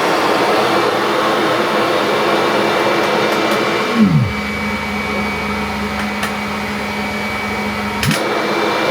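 Kirby Avalir 2 upright vacuum running loudly. About four seconds in, a tone slides sharply down and a steady low hum takes over; a click about eight seconds in cuts that hum off. The owner takes the sound for a worn drive belt that needs changing.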